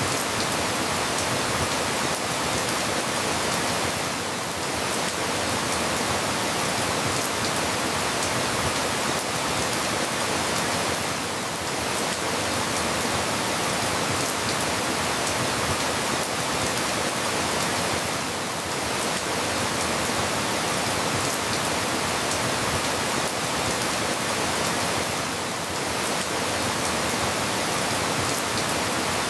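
Steady rain falling, an even hiss with a slight dip in level about every seven seconds.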